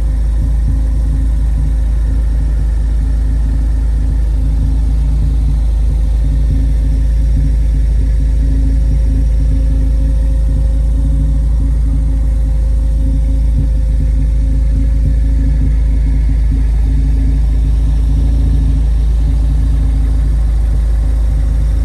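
2013 Ford Focus ST's turbocharged 2.0-litre four-cylinder idling steadily through its 2.5-inch Magnaflow exhaust, heard from underneath the car: an even low rumble with a constant hum over it.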